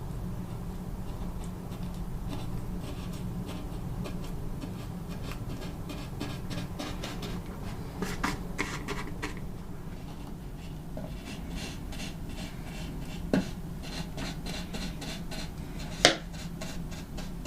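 Rubbing and scraping from hand work at a countertop, many short strokes over a steady low hum, with two sharp clicks near the end.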